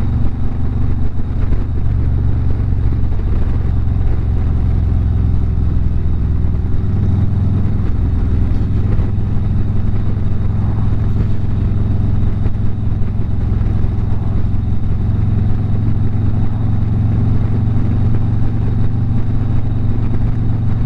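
Harley-Davidson V-twin engine running steadily at highway cruising speed, with wind and road noise. The engine note shifts slightly about seven seconds in.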